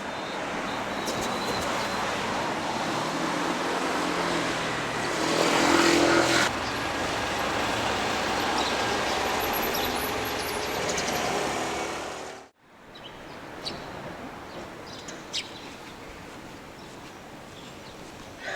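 Outdoor street ambience dominated by traffic noise, with a louder swell about five to six seconds in like a vehicle passing close. About twelve seconds in it cuts to a quieter ambience with a few light clicks.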